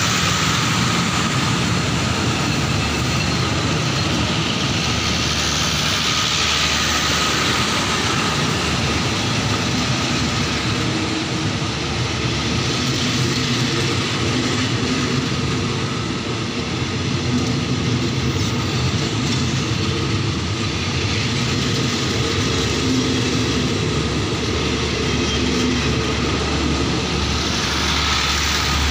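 Passenger train coaches running past at speed close by, a continuous steady rumble of wheels on the rails.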